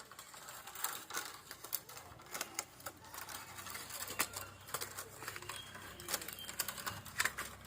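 Irregular light clicks and taps of bamboo being worked by hand, a few sharp knocks each second at uneven spacing.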